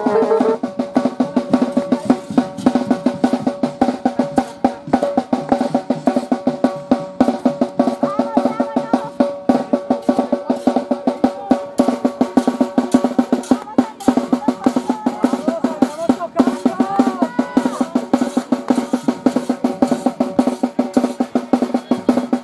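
Drums beaten in a fast, steady rhythm, several hits a second, with steady held tones and some wavering higher notes over them.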